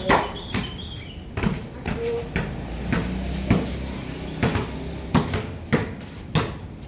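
Basketballs bouncing on a hard court floor: a string of irregular thuds, one or two a second.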